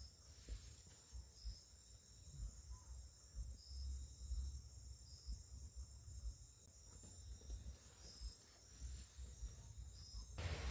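Crickets or other night insects singing in forest: a steady high trill with a short high chirp repeating about once a second, over a faint low rumble. Near the end it cuts abruptly to a louder, fuller ambience.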